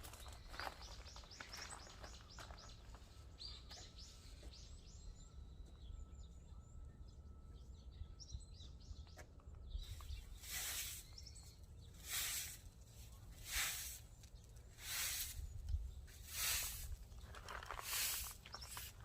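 Small birds chirping repeatedly in the first half. From about halfway, rhythmic hissing swishes come roughly every second and a half.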